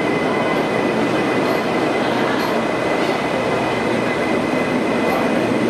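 Vande Metro electric multiple-unit train rolling past close by: a steady loud rumble of wheels on rail, with a steady high-pitched whine and a few faint clicks.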